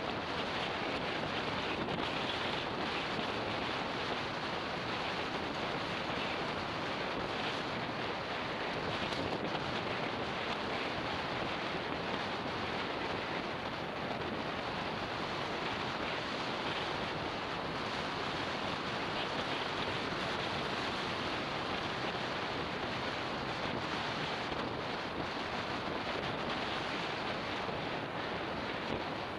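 Steady rush of wind over the microphone of an action camera on a moving motorbike, an even hiss with no clear engine note.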